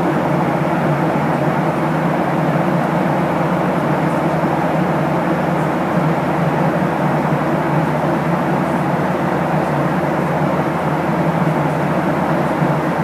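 Steady cabin noise aboard a Boeing 737-800 in flight or on the ground: the even rush of its engines and airflow, unchanging throughout.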